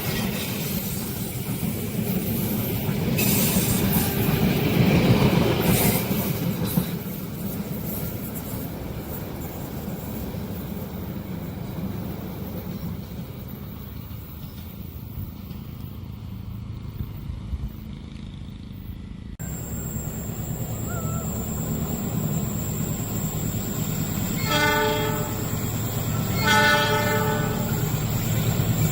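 Train running past with a steady rumble of wheels on rail, louder for a few seconds early on. After an abrupt change, a locomotive horn sounds two short blasts about two seconds apart near the end.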